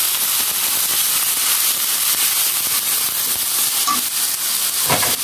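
Sliced onions and ginger-garlic paste sizzling in hot oil in a wok, a steady hiss with fine crackling, as a metal spatula stirs them.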